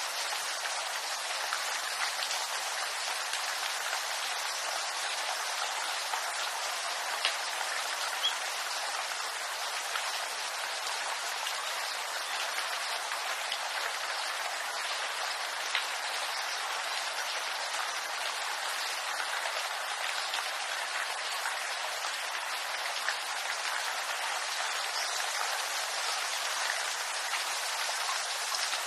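Steady rain falling on bamboo leaves: an even hiss with a few louder single drops standing out now and then.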